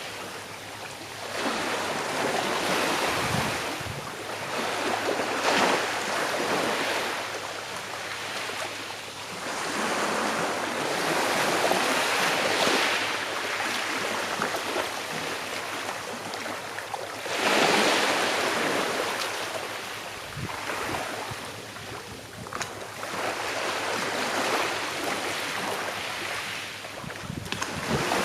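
Sea waves washing gently onto a shore: a hissing swell that rises and falls away every few seconds, one swell louder than the rest past the middle.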